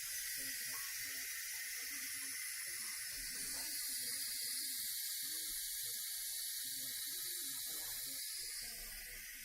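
Instant Pot's pressure-release valve venting steam in a steady hiss during a quick release, easing off a little near the end.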